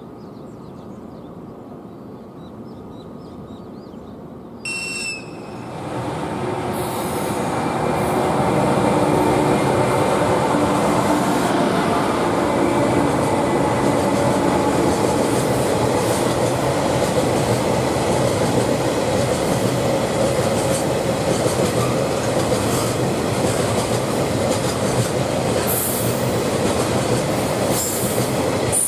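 EH200 electric freight locomotive sounds a short, high whistle blast about five seconds in. Then it passes close with its train of tank wagons: motor noise and steel wheels rolling on the rails grow loud and stay steady, with brief high wheel squeals near the end.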